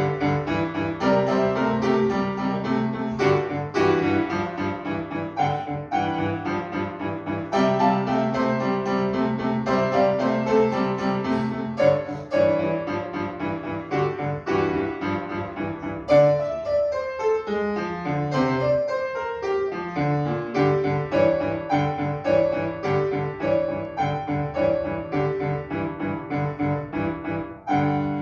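Piano playing a brisk piece of quick repeated notes and chords in an even rhythm, with a run of falling notes about sixteen seconds in.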